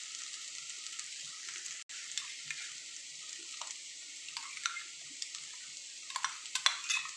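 Chicken pieces with crushed chilli frying in a non-stick pan: a steady, quiet sizzle with scattered small crackles, more of them near the end. The sound cuts out for an instant about two seconds in.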